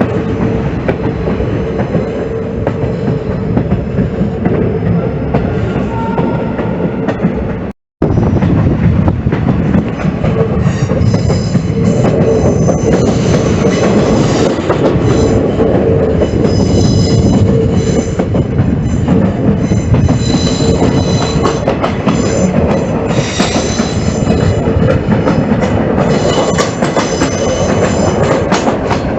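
A train running along the rails with a steady rumble and clatter of the wheels. From about a third of the way in, high-pitched wheel squeal comes and goes over it. The sound cuts out for a moment near the quarter mark.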